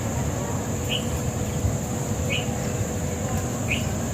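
A bird giving a short chirp about every second and a half, over a steady low rumble and a constant high-pitched hiss.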